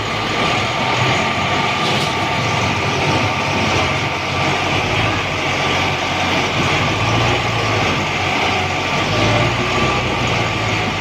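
Tractor's diesel engine running steadily at high revs, a loud continuous drone.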